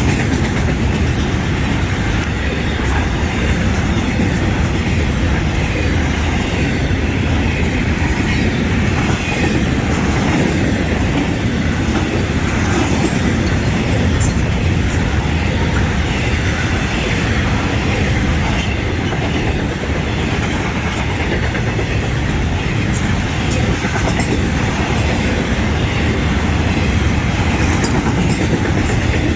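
Florida East Coast Railway freight train 105 rolling past close by: a steady rumble of the cars on the rails, with the wheels clicking and clattering over the track.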